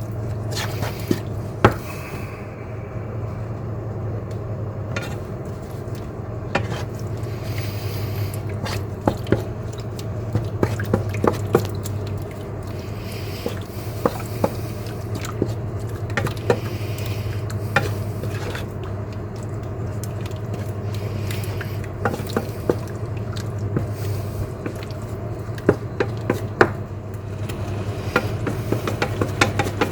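Chicken simmering in water and spices in a pan, bubbling, with scattered clicks and scrapes of a utensil stirring against the pan over a steady low hum.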